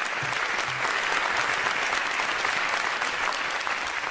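Audience applauding: dense, steady clapping that swells to its fullest in the middle and begins to ease off near the end.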